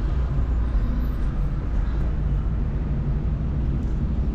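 Steady low road rumble of a moving car: engine and tyre noise with city traffic around it.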